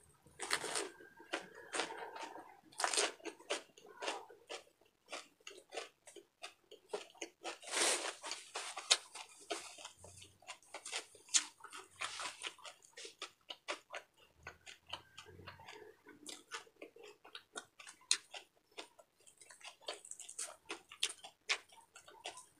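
A person chewing and crunching a mouthful of crispy deep-fried pork bagnet wrapped in lettuce: rapid, irregular crisp crunches with wet mouth sounds, loudest about eight seconds in.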